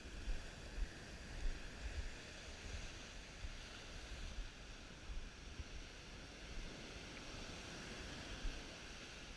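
Steady wash of ocean surf on a beach, with wind buffeting the microphone in irregular low thumps.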